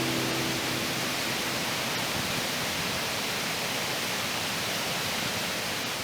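Waterfall's steady rush of falling water, an even hiss with no change in pitch or level.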